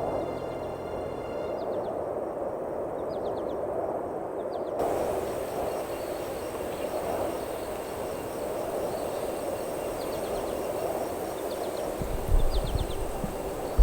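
Steady rush of falling rainwater, with clusters of faint high chirps every few seconds. Music fades out in the first second or so, and a few low thumps come near the end.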